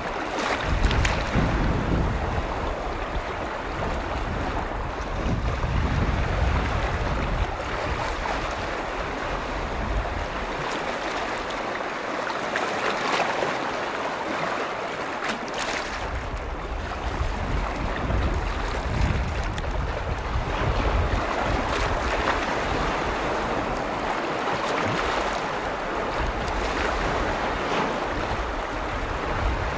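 Lake waves washing and lapping on the shore, with gusts of wind rumbling on the microphone that come and go.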